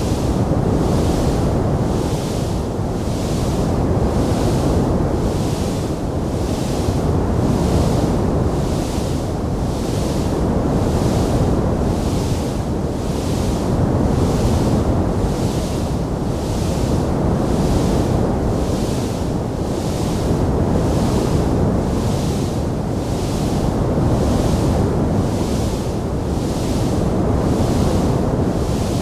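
Wood fire in a fireplace giving a steady low rushing roar that swells and fades about every two seconds, with a hiss above it pulsing evenly about once a second; no distinct sharp crackles stand out.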